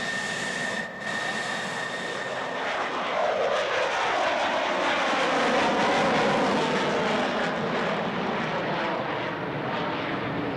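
Airplane flying past at an air show: its engine noise swells to a peak about halfway through and then eases off, the pitch sliding downward as it passes.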